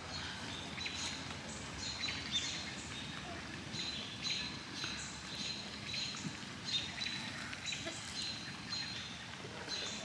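Small birds chirping outdoors: short, high calls repeating every half second or so over faint background noise.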